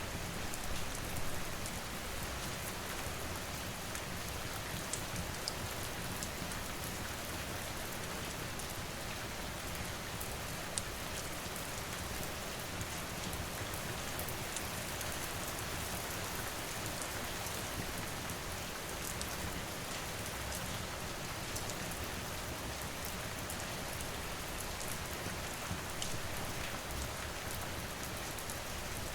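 Steady rain falling, an even hiss with scattered small sharp ticks and crackles from a fire mixed in.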